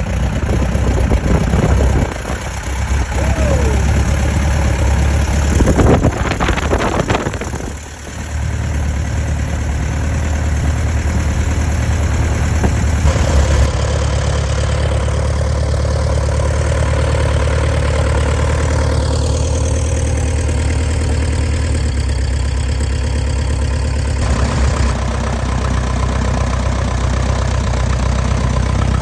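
1939 Piper J3's air-cooled engine and propeller running at a steady idle, just after a hard start on a long-grounded plane, with oil pressure up. The loudness dips briefly about two seconds in and again near eight seconds.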